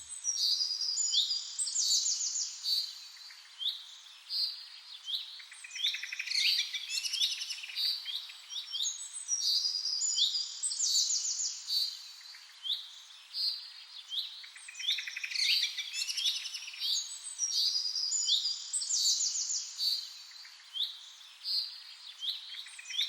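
Small songbirds chirping and singing: many short, quick calls and rapid trills overlapping all the way through.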